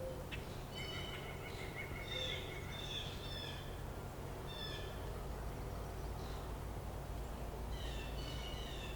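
Birds calling in several short runs of quick chattering notes, over a steady low background rumble.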